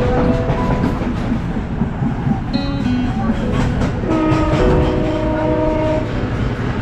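Passenger train running on the line, a loud steady rumble and rattle of the wheels and carriage, with held musical tones over it.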